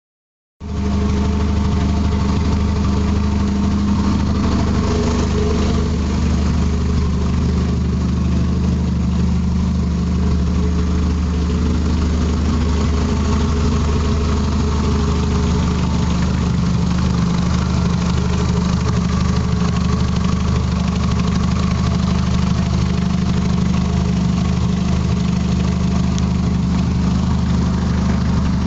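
Ford Probe GT's turbocharged F2T four-cylinder, fitted with a Garrett GT3076R turbo and a full 3-inch exhaust, idling steadily. The sound cuts in abruptly about half a second in.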